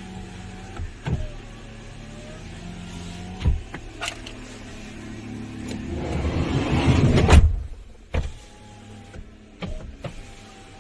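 Kia Carnival power window motor whining as the glass travels, run with the engine off, with sharp switch clicks between runs. A louder rushing noise builds about five seconds in and stops abruptly a little after seven seconds, then the motor whines briefly again.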